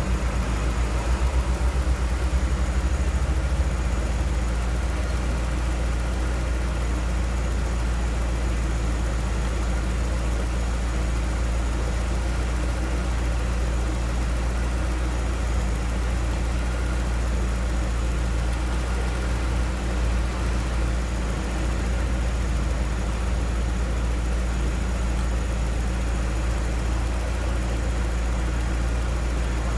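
BMW M42 1.8-litre four-cylinder engine on individual throttle bodies, idling steadily at about 840 rpm, fully warm.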